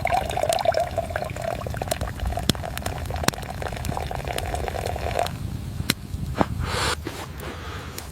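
Water pouring into a vessel: a wavering tone that stops about five seconds in, with scattered sharp clicks and a low rumble underneath.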